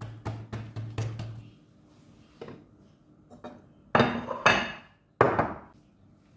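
Kitchen utensils and dishes knocking and clattering on a counter: quick light taps at first, then two loud clattering knocks with a ringing edge about four and five seconds in.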